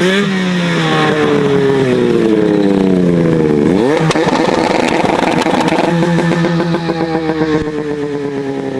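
Two-stroke 600 race snowmobile engine, its pitch falling as it comes off the throttle, with a quick sharp rev about four seconds in, then settling into a lower, uneven pulsing run near the end.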